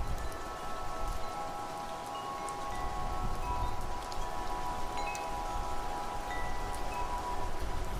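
Wind chimes ringing continuously, several overlapping tones sustaining and fresh strikes adding high pings, over a low gusty wind rumble and a light rain hiss.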